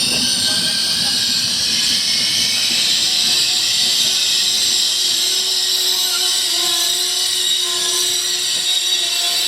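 A train running on past along the station tracks: its low rumble fades in the first second, leaving a steady high hiss with faint whining tones.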